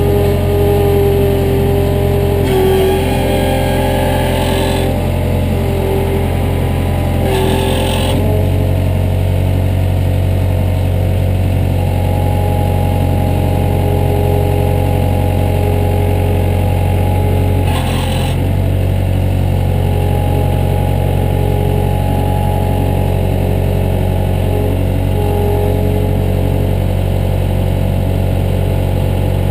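Heavy equipment's diesel engine running steadily under work, its pitch shifting slightly about eight seconds in. Three short bursts of hissing noise cut in over it, the longest about three seconds in.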